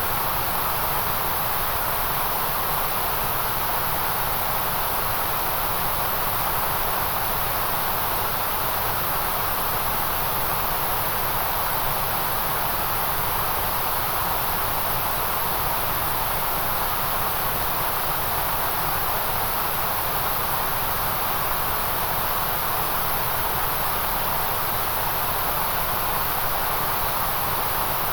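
Steady white-noise hiss with no change in level or character, brightest in the upper range and around the middle.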